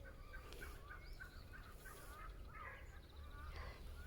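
Farmyard poultry calling: a quick run of short, repeated calls, then a few more calls in the second half, over a steady low rumble.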